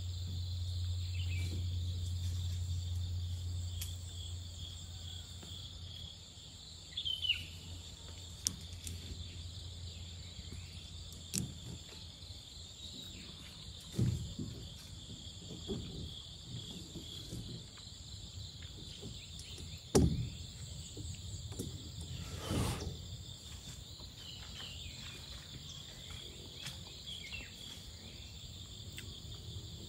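Insects chirring steadily and high-pitched in the background, with scattered knocks and clatters from handling things close by, the loudest about fourteen, twenty and twenty-two seconds in. A low hum fades out in the first few seconds.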